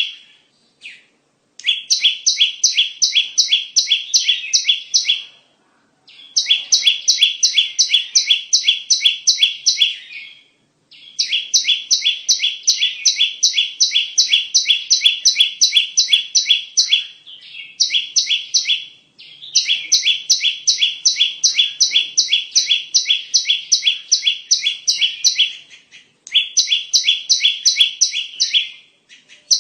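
Bar-winged prinia (ciblek) call used as a bird-lure recording: rapid sharp chirps, about four a second, in runs of a few seconds broken by short pauses.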